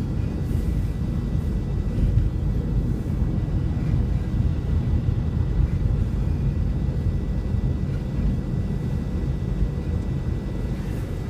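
Steady low rumble of a car's engine and tyres on a snowy highway, heard from inside the cabin while cruising at about 30 mph.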